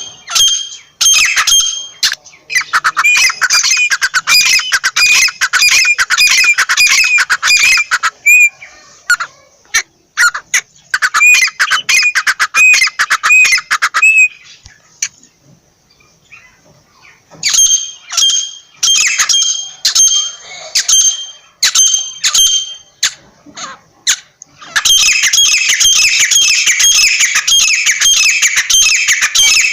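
Francolin (teetar) calling: fast runs of loud, harsh, repeated calls in bouts of a few seconds, with short pauses between the bouts.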